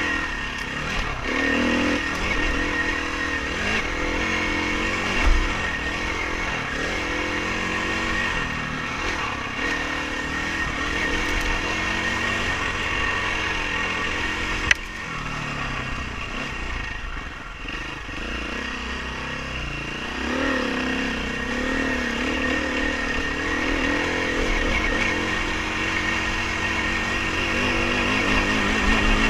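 Dirt bike engine running hard over an off-road course, its revs rising and falling continually with throttle and gear changes. A single sharp knock comes about halfway through.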